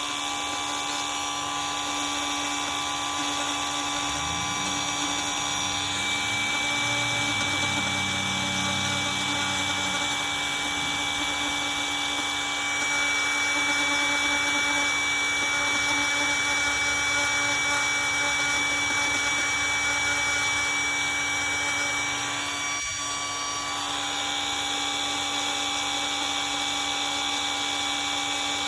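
High-speed rotary grinder running with a steady whine, grinding damaged fiberglass out of a jetski hull down to sound laminate. The grinding noise under the whine shifts as the tool bites, and the whine dips briefly about 23 seconds in.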